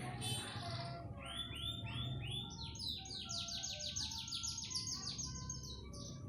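Pied ('panda') canary singing: a few repeated falling notes, then a fast, high trill of many rapid notes.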